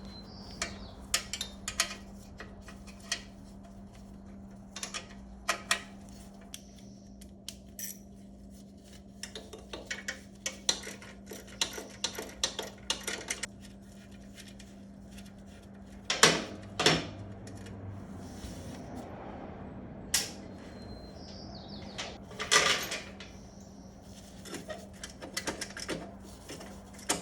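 Metal clinks, clicks and knocks of hand tools and loose parts as the exhaust is unbolted and taken off a 1976 Honda CB550, with a few louder knocks in the second half. A steady low hum runs underneath.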